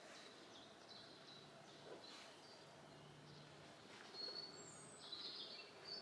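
Near silence with faint bird chirps: a few short, high calls about four to five seconds in.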